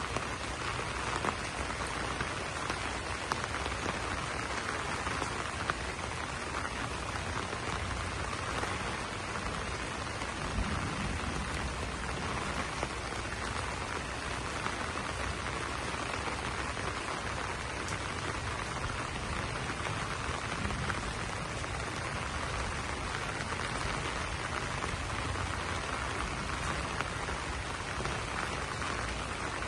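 Steady rain falling on banana leaves: a dense, even patter of drops with now and then a sharper single drop hit.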